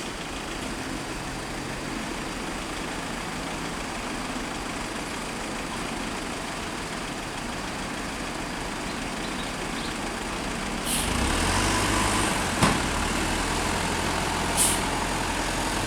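Heavy diesel engine of a bus or truck idling, growing louder about 11 seconds in as it runs closer or harder. Short air-brake hisses come about 11 and 14.5 seconds in, with a sharp click between them.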